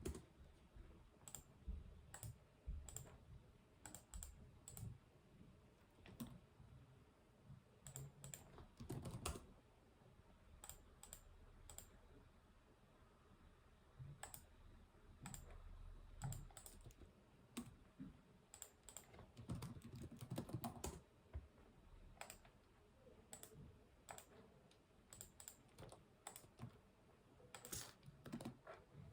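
Typing on a computer keyboard: quiet keystroke clicks in irregular bursts, with short pauses between runs.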